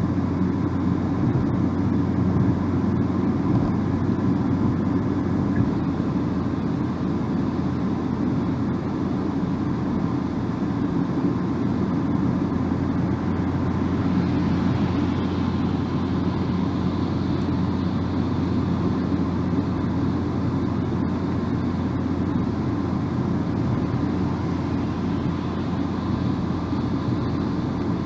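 Steady drone of a car driving along a road: tyre and engine noise with a low rumble. A thin hiss grows slightly stronger about halfway through.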